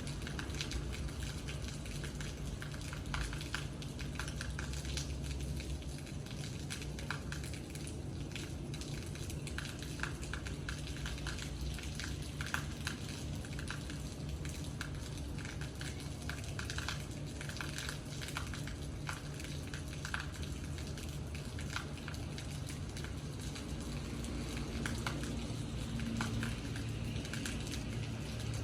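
Rain falling, with many irregular drops tapping and crackling on a hard surface over a steady low hum.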